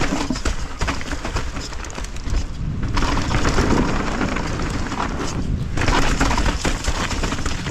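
Mountain bike descending a rough trail: a steady rumble of tyres over dirt and rock, with a constant clatter of sharp knocks and rattles from the bike, heavier from about three seconds in.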